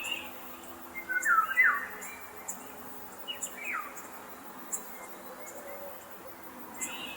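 Birdsong: a few short whistled notes that fall in pitch, in two groups in the first half, over high insect chirps repeating about once a second.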